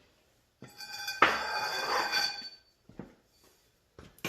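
Half-inch impact wrench hammering for about two seconds on a seized nut on a hydraulic cylinder, with a metallic ringing over the rattle of the impacts, then a couple of light clicks.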